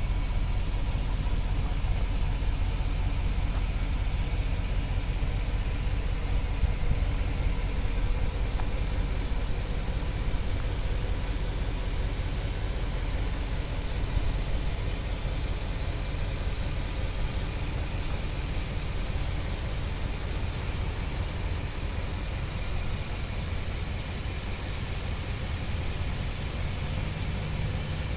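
Engine of a carpet-cleaning van rig running steadily at idle, a continuous low rumble with a hiss above it that eases slightly in loudness partway through.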